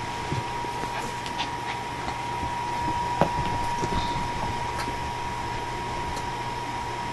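Scattered light clicks and taps of small puppies playing with toys, with one sharper knock about three seconds in, over a steady high-pitched hum and hiss of room noise.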